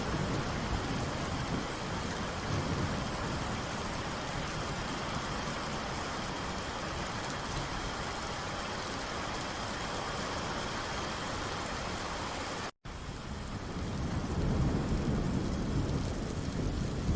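Steady rain falling, an even hiss. The sound drops out for a split second about thirteen seconds in, and a low rumble of thunder builds near the end.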